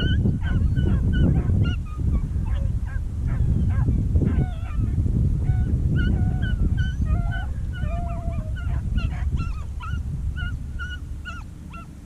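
Beagles baying on a rabbit's track: many short, overlapping yelping bays from more than one dog, the sound of hounds running a rabbit. A loud low rumble of brush and handling noise runs underneath, and the bays thin out and grow quieter near the end.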